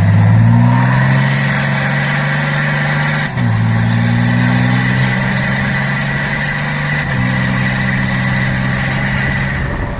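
Vehicle engine pulling under steady throttle, its note rising slowly in pitch and then dropping at two gear changes, about a third of the way in and again about two-thirds of the way in.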